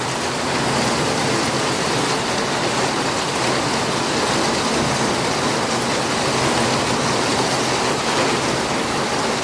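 Heavy rain pouring onto wet paving in gusty wind: a steady, even hiss.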